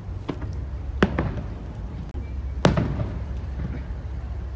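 Aerial firework shells bursting in the distance: a faint bang just after the start, a sharp bang about a second in followed at once by a second report, and the loudest bang about two and a half seconds in, over a steady low rumble.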